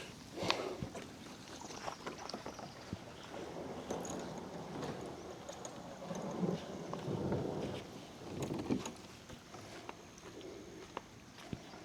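Pedal-drive fishing kayak under way: water sloshing against the hull, with scattered small knocks and clicks from the boat.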